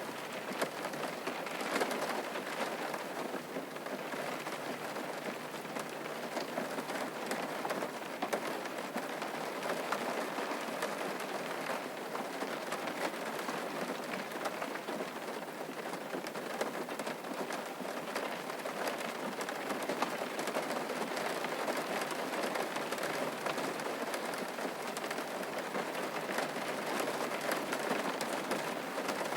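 Steady rain falling on a surface, a dense patter of drops.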